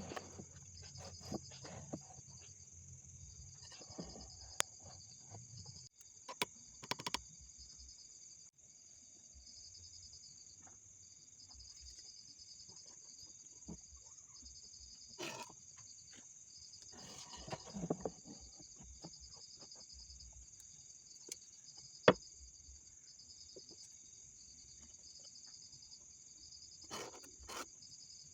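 Insects chirping in a steady, pulsing high trill, with scattered sharp knocks and taps of wood being handled and worked for a corner joint; the sharpest knock comes about 22 seconds in.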